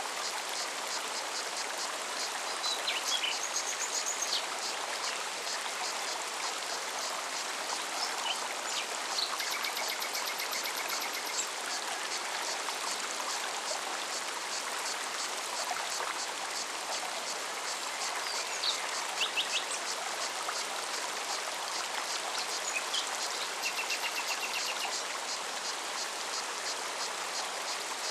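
A forest mountain stream flowing with a steady rush, over a cicada's fast, even pulsing. Short bird trills break in now and then.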